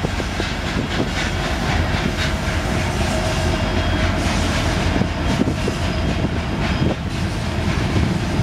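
A BNSF diesel-hauled freight train passing close by: the locomotive engines rumble low and steadily while the wheels click over the rail joints.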